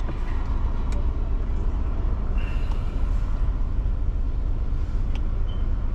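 Car engine idling while stopped, heard from inside the cabin as a steady low rumble, with a couple of faint clicks.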